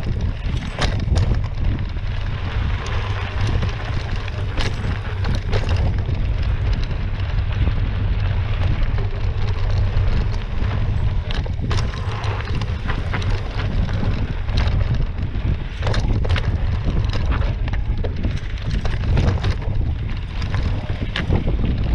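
Wind buffeting the microphone of a mountain bike ridden on a rough dirt trail, with tyres over loose stones and frequent sharp clicks and rattles from the bike.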